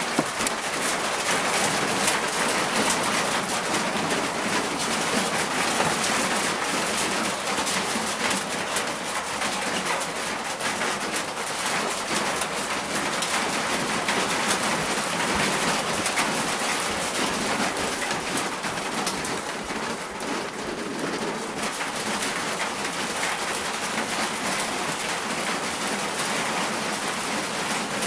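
Thunderstorm rain falling steadily, a dense, even hiss with fine spattering that eases slightly about two-thirds of the way through.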